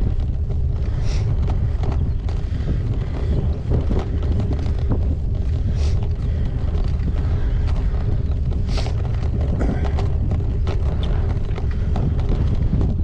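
Wind buffeting a GoPro's microphone on a moving gravel bike, a heavy steady rumble with many small rattles and clicks from the bike and its tyres on the track. Three brief hissing bursts come about a second, six seconds and nine seconds in.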